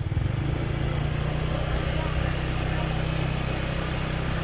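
Motorbike engine running steadily at low speed as it rides along, with a low, even drone.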